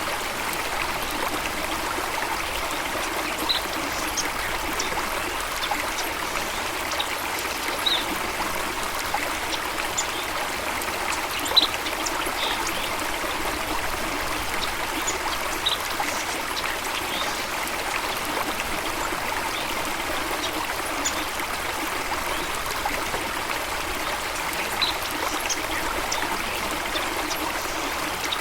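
Water flowing steadily in a stream, an even rush with scattered brief high-pitched blips; one sharper, louder blip comes about twelve seconds in.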